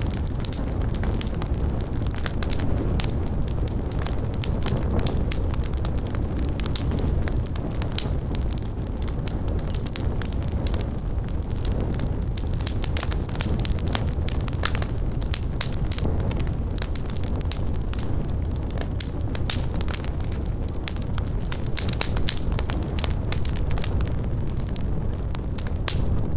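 Large fire burning: a steady low rush of flames with dense, constant crackling.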